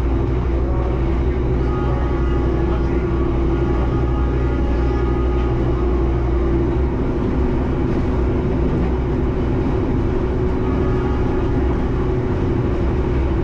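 Passenger train running at speed, heard from inside the carriage: a steady low rumble of wheels on the track with a constant hum.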